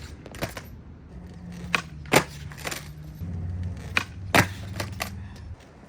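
Skateboard with loose trucks rolling along, with sharp wooden clacks of the tail popping and the board slapping down, two main pop-and-land pairs about two seconds apart, from frontside flip attempts.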